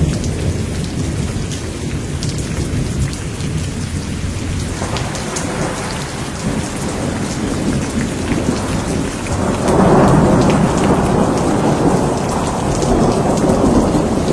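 Steady rain with rolling thunder rumbling underneath. A louder roll of thunder builds up about two-thirds of the way through while the rain keeps pattering.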